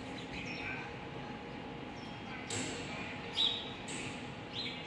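A few short, high bird chirps, the loudest about three and a half seconds in, over a steady background hum.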